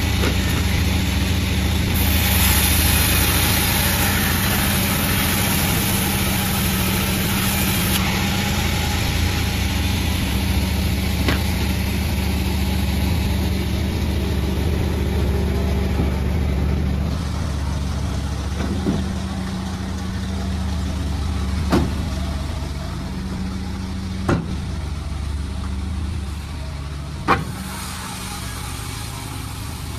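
Sawmill machine's engine running steadily. It is louder for the first several seconds, and a few sharp knocks come a few seconds apart in the second half.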